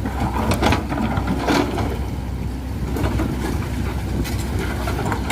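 Heavy diesel engine running steadily, with a few short metallic knocks and clanks.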